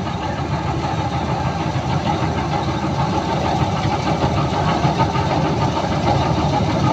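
Preet combine harvester running steadily while harvesting wheat, a dense, continuous engine and machinery noise.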